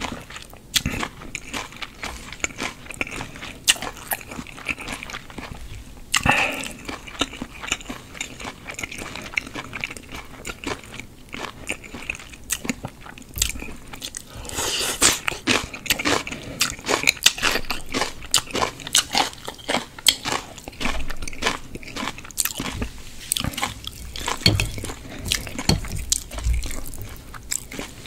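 Close-miked chewing and wet mouth sounds of someone eating spicy mixed makguksu noodles, with many short smacks and some crunching.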